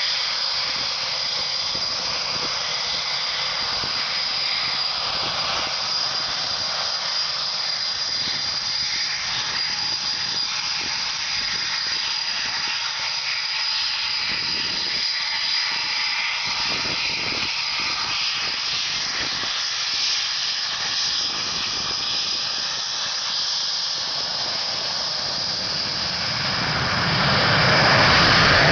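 Eurofighter Typhoon's twin EJ200 turbofan jet engines at taxi power: a steady high whine over a hiss. The sound grows louder near the end.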